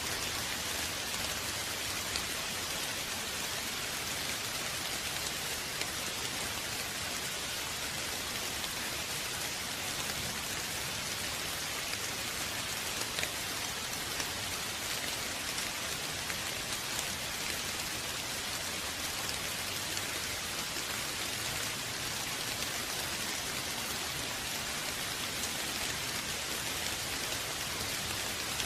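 Steady rain falling, an even hiss of many drops hitting a surface, with faint individual drop ticks and no letting up.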